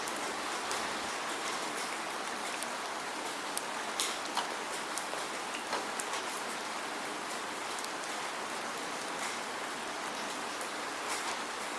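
Steady rainfall, a constant hiss with scattered sharper drips and ticks of drops striking nearby surfaces, no thunder.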